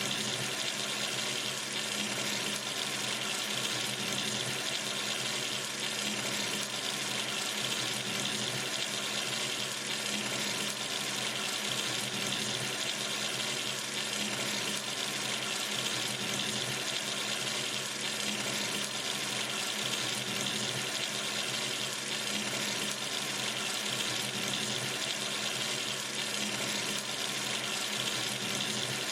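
Water running steadily from a sink tap into the basin, an even, unchanging splashing rush.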